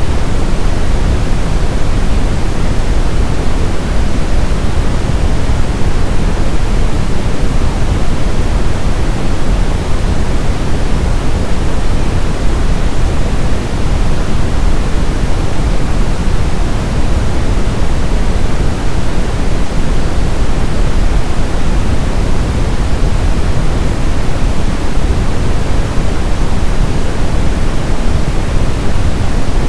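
Brown noise: a steady, loud, even hiss-like rumble weighted toward the low end, with no change or events.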